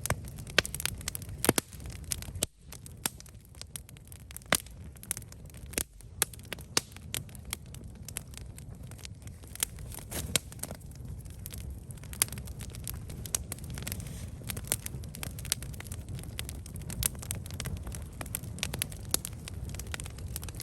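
Campfire burning, wood crackling and popping in irregular sharp snaps over a steady low rumble of flame.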